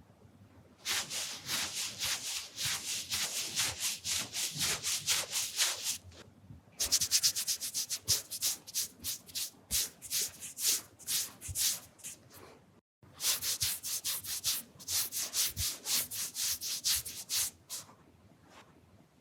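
Brisk rubbing strokes right against the microphone, several a second, in three runs with short pauses between: close-up ASMR wiping sounds.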